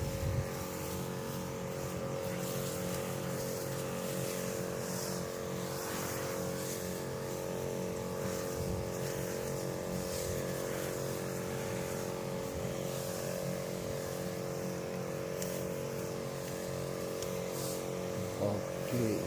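A small engine or motor running steadily at an even speed, with a constant droning hum.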